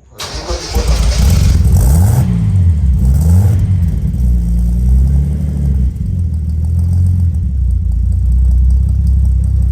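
Datsun 280Z turbo engine starting up and revved twice, then settling into a steady idle through its new 2.5-inch DIY exhaust.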